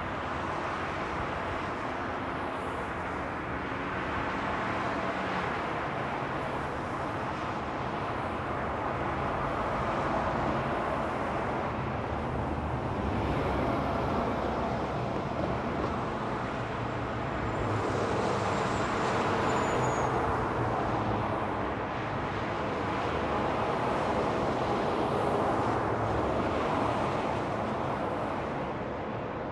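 Steady freeway traffic on Interstate 40: the continuous noise of tyres and engines, swelling and easing every few seconds as vehicles pass.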